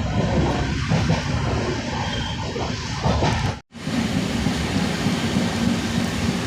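Steady low rumble and rushing noise of a moving passenger train, which drops out for a moment about three and a half seconds in and then resumes.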